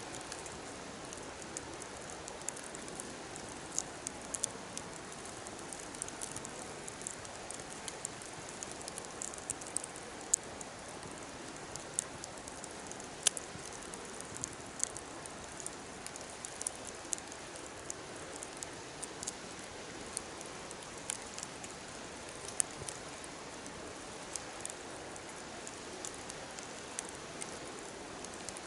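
Wood fire burning in an open fire pit: a steady soft hiss with frequent, irregular sharp pops and crackles of burning wood.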